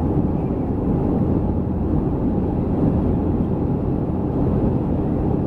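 Steady low drone of a Boeing 737-300 heard from inside the passenger cabin: its CFM56 turbofan engines and the rush of air over the fuselage. It runs even, with no changes.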